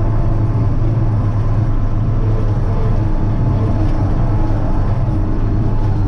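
Kirovets K-700A tractor's diesel engine running steadily with a deep, even hum.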